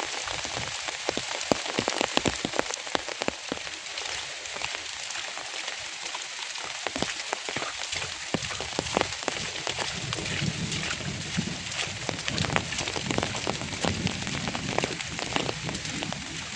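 Steady rain falling on a surface: a dense hiss made of many separate drop hits. From about ten seconds in, a deeper undertone joins it.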